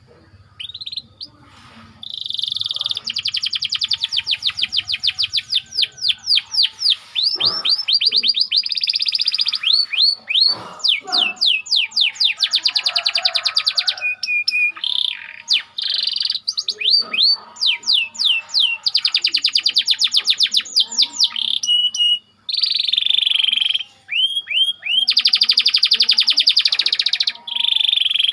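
Domestic canary singing a long, tight rolling song: very fast trills of repeated notes, one roll running into the next with a few brief breaks, and a string of separate down-slurred chirps near the end.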